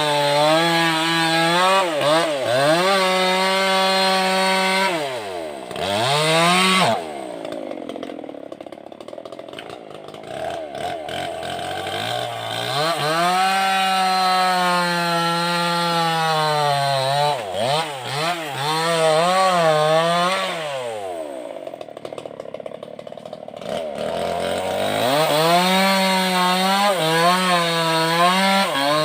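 Two-stroke chainsaw with a Stihl chain running at high revs through wood. Its engine note falls away twice, about five seconds in and again past twenty seconds, then climbs back up.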